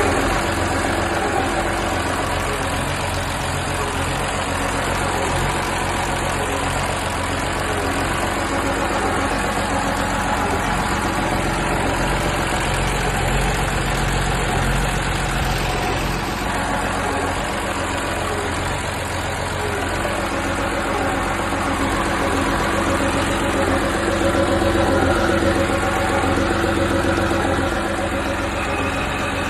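Deutz F6L912 air-cooled six-cylinder diesel engine running steadily.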